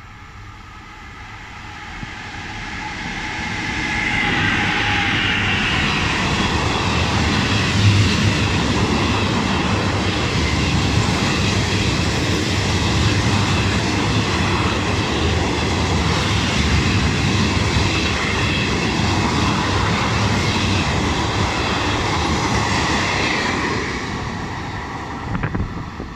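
Freight train passing through a station on the near track. It grows louder over the first few seconds as it approaches, then keeps up a steady heavy rumble of wagons and wheels with a high whine above it, and eases off near the end.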